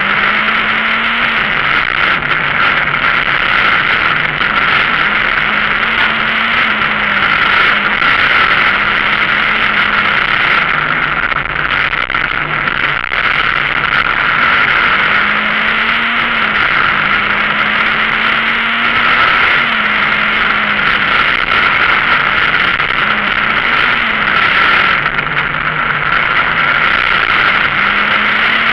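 Citroën Saxo VTS rally car's 1.6-litre four-cylinder engine at full throttle, heard loud from inside the cabin: the revs climb and fall again and again through gear changes and lifts between bends, over constant road and cabin noise.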